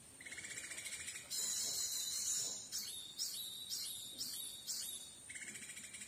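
Songbird calls: a fast trill, then a scratchy burst, then a string of short rising chirps about two a second, with the fast trill coming back near the end.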